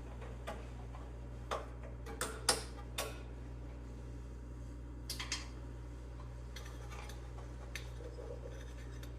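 Scattered light metallic clicks and ticks from small carburetor parts being handled as a stripped throttle-cable bolt is undone by hand, over a steady low hum.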